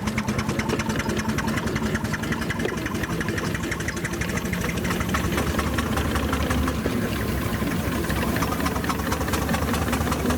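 An engine running with a fast, even ticking beat over a steady hum; a deeper rumble joins about halfway through.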